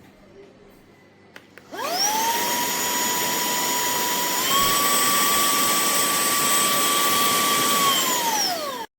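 SERVOMASTER cordless handheld vacuum switched on after a couple of clicks. Its motor spins up to a steady whine, steps up to a higher pitch about halfway through, which fits the second of its two speed levels, then winds down as it is switched off near the end.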